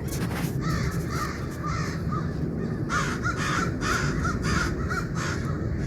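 Crow cawing, a quick run of short repeated calls that comes thickest a few seconds in, over a steady low rumble.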